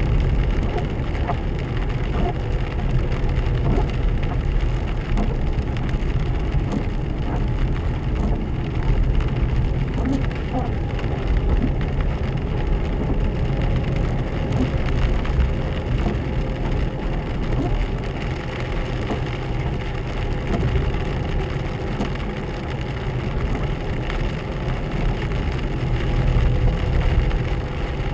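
Four-wheel-drive car driving on a slushy, hail-covered road, heard inside the cabin: a steady low rumble of engine and tyres with a light crackling patter over it.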